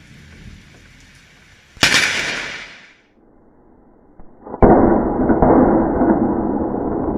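A sharp thunderclap from a close lightning strike about two seconds in, fading over about a second. A few seconds later a loud, steady noise starts suddenly and carries on.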